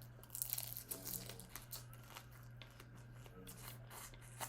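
Crackly crunching, tearing and smacking of eating a whole stir-fried jumbo prawn close to the microphone, busiest in the first couple of seconds and then in scattered bits.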